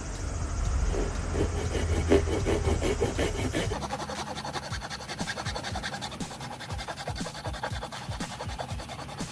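Repeated scraping and scratching strokes on rotten red pine root wood as resin-soaked fatwood is worked out of it. The strokes are heavier for the first few seconds, then lighter and evenly repeated.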